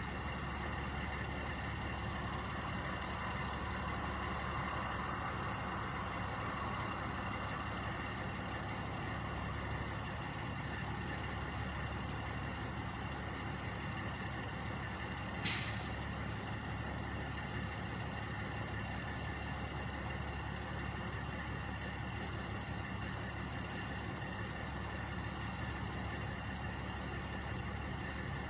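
Idling truck engines: a steady low hum with a few faint steady tones, broken about halfway through by one short hiss of air.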